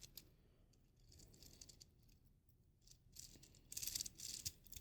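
Faint rattling and clicking of plastic Lego Technic parts as a Lego V6 engine model is handled, a little louder for about a second near the end.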